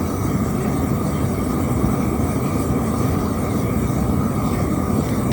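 Propane tiger torch burning at full flame with a steady, unbroken roar, blasting a rain-soaked campfire to get it burning again.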